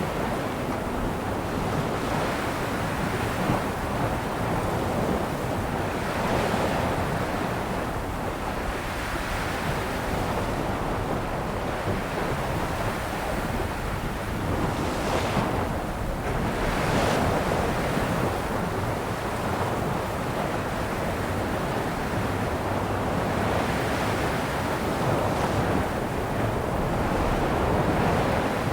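Sea waves breaking and washing on a shore, a continuous surf noise with swells as waves come in, the strongest about halfway through. Wind noise on the microphone sits under the surf.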